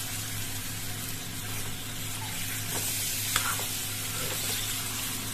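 Chicken pieces sizzling in hot oil in a kadhai as they are stirred and turned with a spatula, with a few light scrapes of the spatula against the pan.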